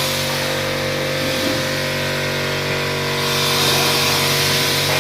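Steady machine noise: a constant multi-tone hum with a hiss over it, from some running equipment, holding level until it cuts off suddenly right at the end.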